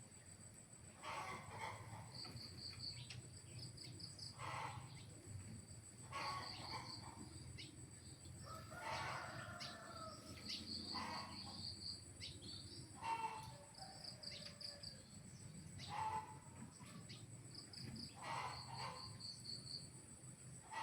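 Outdoor countryside ambience: a steady high insect drone, short repeated chirping trills, and intermittent calls from birds every couple of seconds.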